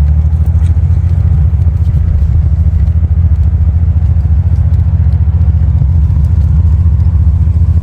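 Triumph TR6's straight-six engine running at a steady speed while the car is driven, a deep exhaust note pulsing evenly.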